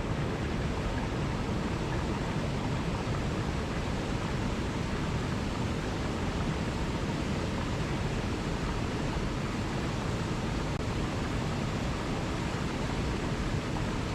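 Steady rush of falling water from a waterfall, an even roar without let-up, heaviest in the low end.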